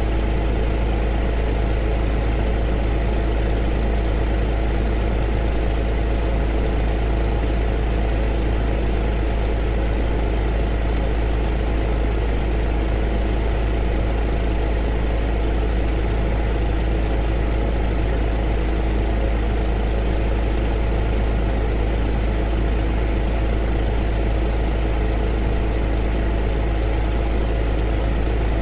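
Heater running continuously: a steady, unchanging hum with a strong deep rumble and a few constant tones over an even rushing noise.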